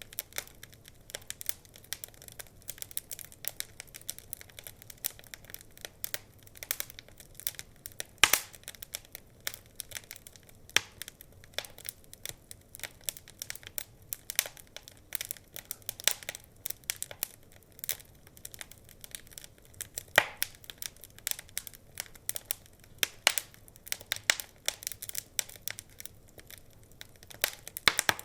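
Wood fire crackling steadily, with irregular snaps and pops, a few louder sharp pops standing out.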